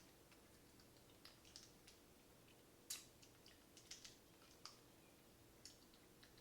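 Near silence with faint, scattered short clicks and ticks, irregularly spaced, the loudest about three seconds in.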